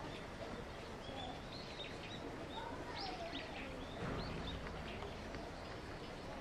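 Small birds chirping in short high notes, busiest about three seconds in, over a steady background hum.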